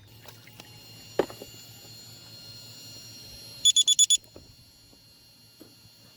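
Electronic beeper giving five rapid high beeps of the same pitch, with a sharp click about a second in and a faint steady high whine before the beeps.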